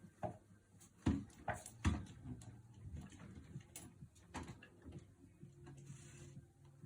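An African grey parrot playing on its homemade swing: a handful of sharp knocks and clicks, the loudest about a second and two seconds in, with another a little after the middle.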